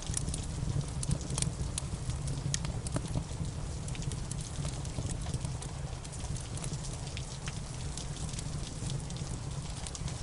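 Wood fire crackling, with many irregular sharp pops and snaps over a steady hiss of rain and a low rumble.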